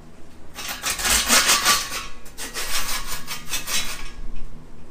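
Metal parts clattering and scraping against each other in a rapid run of clinks for about three and a half seconds, with a short break in the middle.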